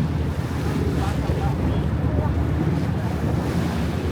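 Steady low rumble of a river cruise boat under way, its engine and the water running beneath, with wind buffeting the microphone.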